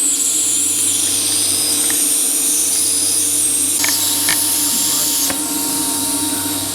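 A power tool running steadily with a high whine for several seconds, cutting off at the very end.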